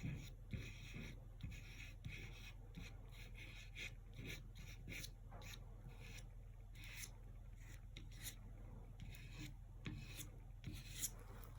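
Paintbrush working acrylic paint: a run of short, faint, scratchy strokes and soft dabs at an irregular pace, over a steady low hum.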